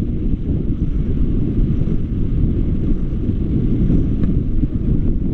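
Wind buffeting the microphone during river rafting: a steady, loud low rumble.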